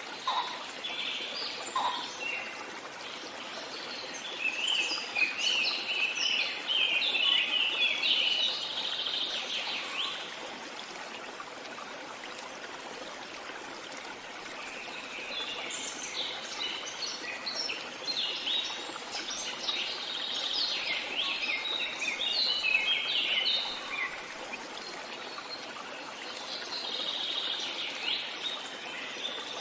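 Songbird singing in long phrases of rapid, twittering chirps over the steady rush of a running stream, with pauses of a few seconds between phrases.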